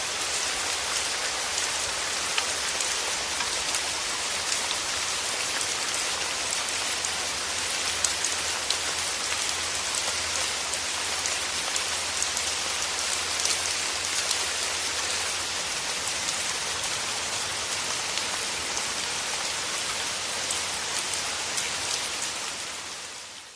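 Steady rain falling, a dense even hiss with scattered individual drop ticks, fading out near the end.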